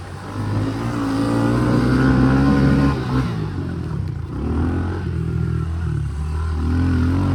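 Small dirt bike engine revving hard and easing off several times as it is ridden around a motocross track.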